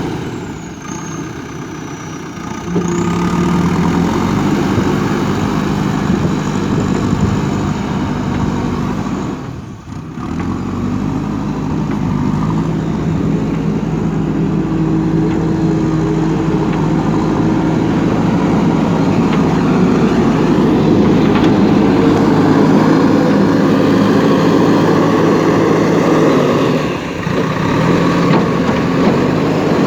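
Backhoe loader's diesel engine running under working load, its pitch shifting up and down as the machine digs and moves soil. The sound briefly drops away about ten seconds in.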